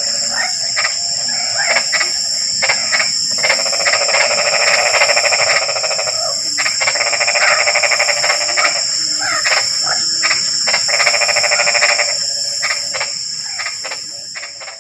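Chorus of frogs calling after rain: long, rapid pulsing trills of a few seconds each, with shorter croaks between them, over a steady high-pitched ringing. The calls fade out near the end.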